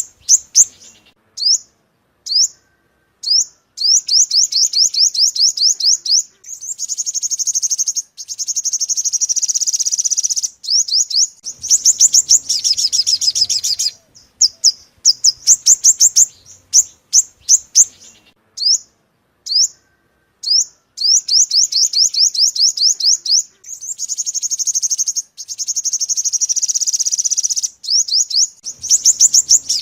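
Song of a yellow-bellied sunbird (olive-backed sunbird), played as a lure recording. It is a loud, high series of quick falling chirps with scattered single notes and longer rapid trills, and the phrase pattern repeats as the recording loops.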